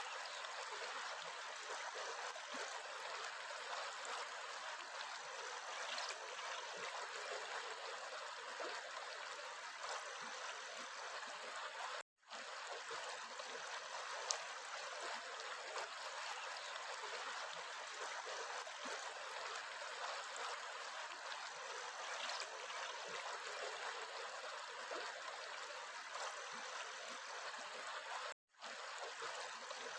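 Stream water flowing, a steady, even rushing hiss. It cuts out suddenly for a split second twice, about twelve seconds in and again near the end.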